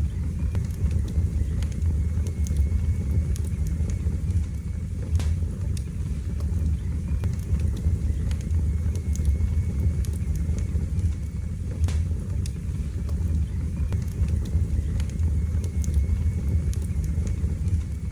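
Wood fire burning in a fireplace: a steady low roar of flames with scattered sharp crackles and pops, and a faint thin whistle that comes and goes.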